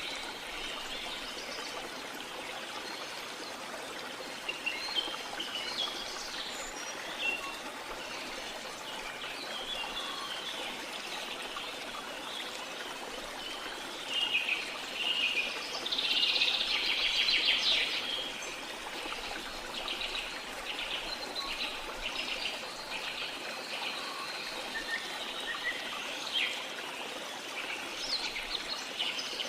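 Small songbirds chirping and twittering over a steady wash of water, with the busiest and loudest chirping about halfway through.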